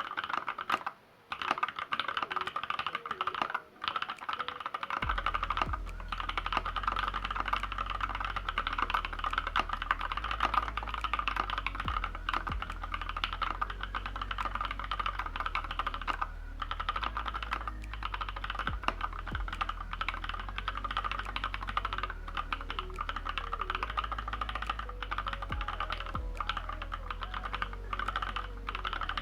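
Fast, continuous typing on the LZ B7 custom keyboard: dense key clacks with brief pauses about one and three and a half seconds in. Background music with a low stepping bass line comes in about five seconds in.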